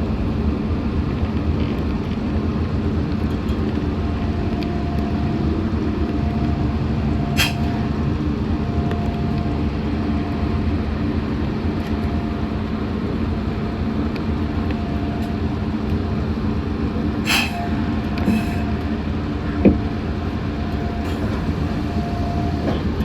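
Steady rumble and hum inside a Meitetsu 6500-series electric train, with a steady whine joining about four seconds in. Two sharp clicks come roughly ten seconds apart.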